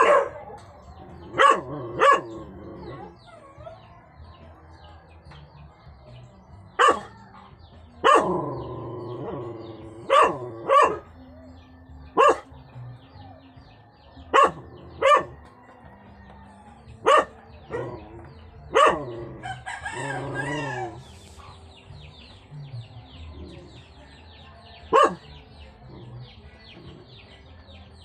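A dog giving single sharp barks, about a dozen of them, one every one to two seconds with a longer pause before the last one.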